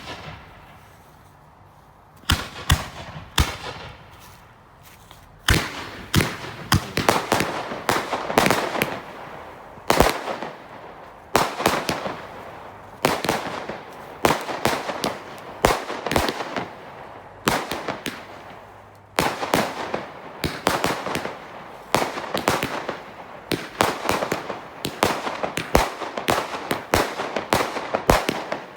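Consumer fireworks going off: one sharp crack at the start, then from about two seconds in a continuous run of bangs and crackling volleys in rapid clusters.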